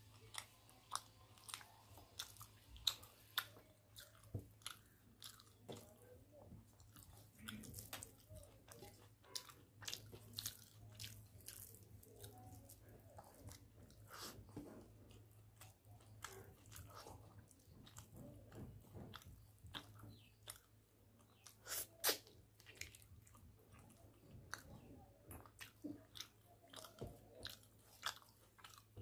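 Close-up mouth sounds of a man eating rice mixed with curry by hand: wet chewing with many short smacks and clicks, and the soft squish of fingers working rice on a steel plate. A sharper pair of smacks comes about two-thirds of the way through.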